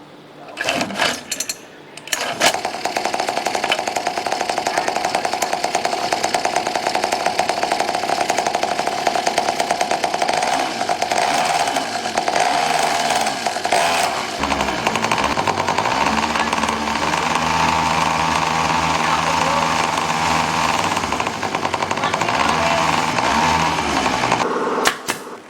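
Small motorcycle engine that starts after a few clicks about two seconds in, then runs with a rapid, even pulsing; a deeper steady note joins about halfway through, and the engine stops just before the end.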